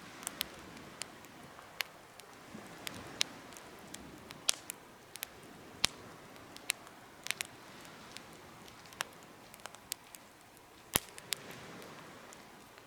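Wood campfire in a DIY fire stand crackling, with irregular sharp pops over the soft rush of the flames; one pop near the end is the loudest.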